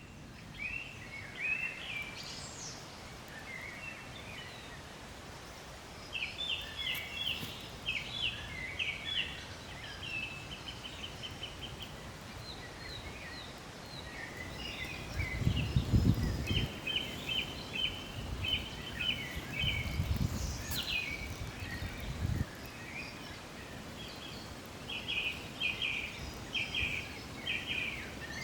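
Songbirds singing in repeated phrases of quick, high chirping notes over a steady outdoor hiss. Low rumbles come and go in the middle.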